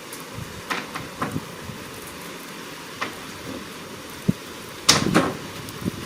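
Steady hiss of rain, broken by several sharp knocks and taps. The loudest is a short cluster about five seconds in.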